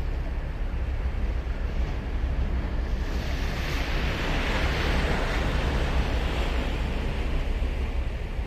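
Ocean surf: a wave breaks and washes up the beach, its hiss swelling to a peak about halfway through and then fading. Under it runs a steady low rumble of wind on the microphone.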